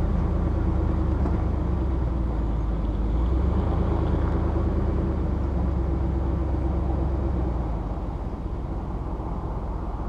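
A motor vehicle driving: steady engine and road rumble, easing off a little about eight seconds in.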